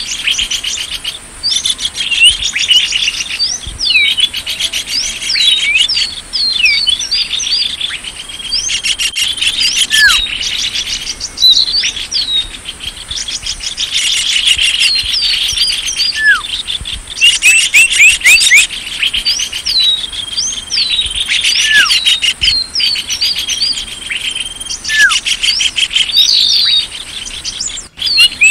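Small songbirds chirping and trilling rapidly and continuously at a high pitch. Every few seconds a single note slides down in pitch. This is a bird-lure (pikat) recording used to call small birds in.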